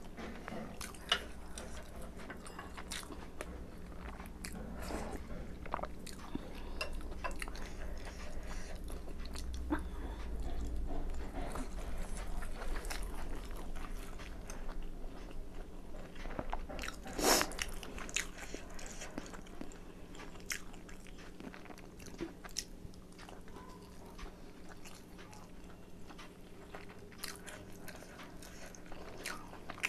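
Chewing and biting of chicken momo dumplings, with many small wet mouth clicks and one sharper, louder click about seventeen seconds in.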